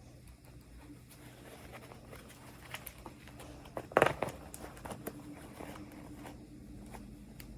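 Scattered small clicks and taps of toy packaging and small plastic pieces being handled, with a louder clatter about four seconds in, over a low steady hum.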